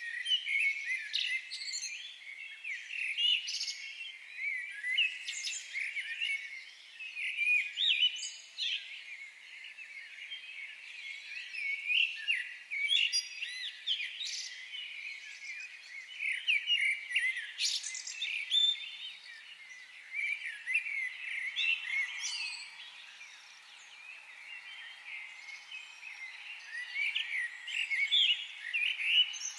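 Several birds singing and chirping together, a dense chorus of quick, high notes that come in bursts every few seconds.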